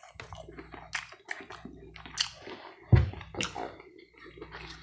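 Chewing a mouthful of pancake with wet clicks and smacks, and one low thump about three seconds in.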